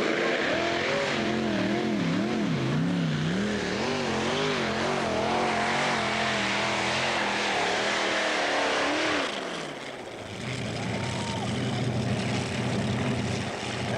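Pulling tractor's engines running hard, their pitch wavering up and down for about nine seconds. The revs then fall away, and the engines run on lower and steadier.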